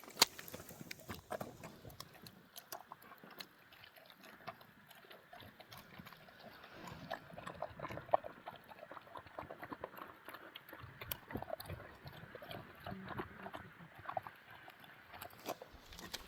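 Farm livestock moving about and feeding, with irregular small knocks, clicks and scuffs.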